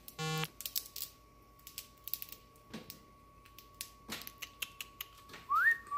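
Cockatiel in its cage making irregular light clicks and taps, after a short beep at the very start. Near the end comes a whistled note that rises, holds and falls, twice.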